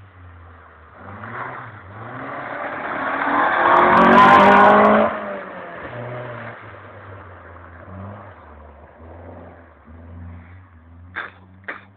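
Proton Compact's engine revving up hard, climbing for about three seconds to its loudest, then dropping off suddenly to a lower steady run as the throttle is lifted. Two short sharp clicks come near the end.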